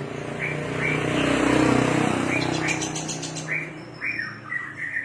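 A passing motor vehicle's engine swells and fades, loudest about one and a half to two seconds in. Over it a Javan bush lark (branjangan) gives short, repeated chirps that come more often near the end.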